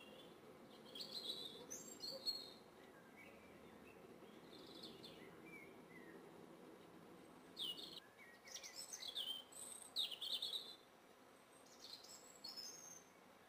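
Woodland birds chirping, short scattered calls that come most thickly between about eight and eleven seconds in, over a faint steady background noise.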